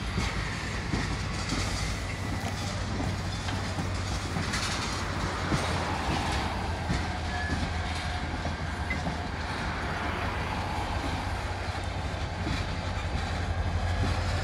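Freight train tank cars rolling past, their wheels clicking over the rail joints over a steady low rumble that grows a little louder near the end.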